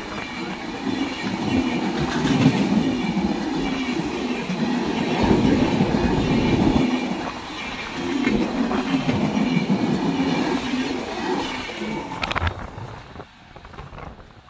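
Express train's passenger coaches passing close at speed, wheels clattering on the track, then fading away about twelve seconds in as the last coach pulls off down the line.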